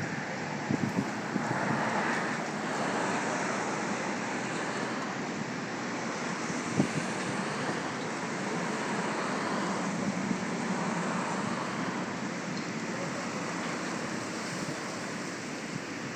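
Steady rushing outdoor background noise with a few faint knocks; no bird call stands out.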